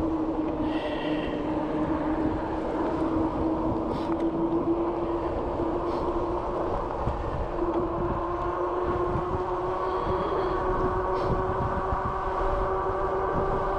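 Bicycle riding: a steady whine over a low rolling rumble, its pitch drifting a little with speed, with a few faint clicks.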